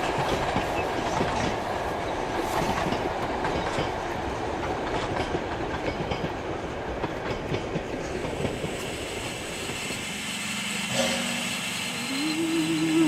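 Heritage steam train rolling along the track: a steady rumble with many irregular knocks from the wheels. It fades out about ten seconds in, and music with held notes takes over near the end.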